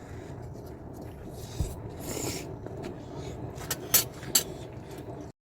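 Tableware handled during a meal: scattered light clicks, a brief scrape about two seconds in, and two sharp clicks near four seconds, over steady background noise. The sound cuts off abruptly just before the end.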